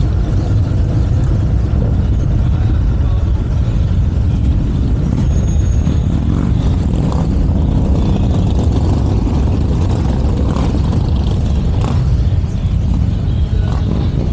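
Steady low rumble of motorcycle engines and street traffic, with faint crowd chatter.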